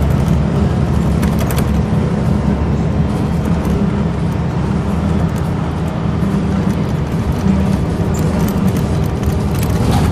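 Scania L94UB single-deck bus with Wright Solar bodywork, heard from inside while under way: a steady low engine and drivetrain rumble with a grinding noise and scattered rattles. The engine is a 9-litre five-cylinder diesel.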